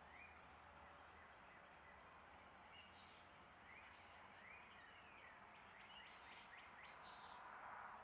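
Faint songbird chirps, a scatter of short rising notes coming thicker in the middle seconds, over a steady low hiss of outdoor background noise.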